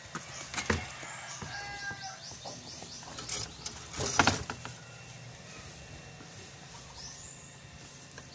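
A bird chirping in a quick run of short, high, falling notes about a second in. A couple of sharp knocks come through as well, the louder one about four seconds in.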